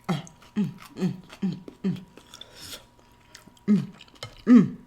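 A person eating and making a run of short, falling "mm" hums of relish, about two or three a second, with a louder one near the end and soft mouth clicks between them.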